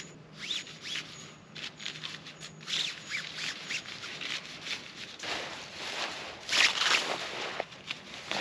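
Close rustling and scraping of something being handled, with short clicks and brief squeaks, growing busier and louder between about five and seven and a half seconds in.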